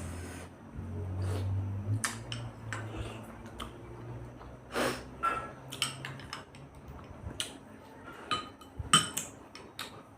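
Cutlery clinking and scraping against plates as chowmein is eaten, in scattered sharp clicks of varying loudness.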